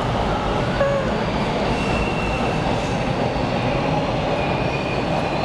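Subway train running along the track: a steady rumble of the wheels and car, with thin high squeals from the wheels about two seconds in and again near the end.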